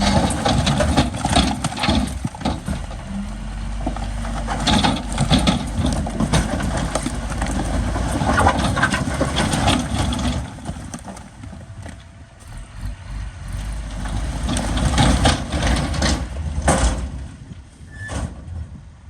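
Heavy diesel earthmoving machinery working, its engine running under load with frequent metallic clanks and knocks. The sound eases off about two-thirds of the way in, swells again, then dies away near the end.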